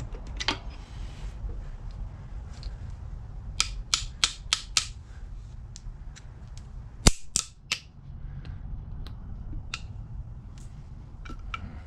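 Sharp metal clicks and taps from working a main bearing cap and its bearing shell loose on a Ford 360 FE engine: a quick run of about six taps a few seconds in, one loud clack about seven seconds in followed by two lighter ones, and scattered light clicks, over a low steady hum.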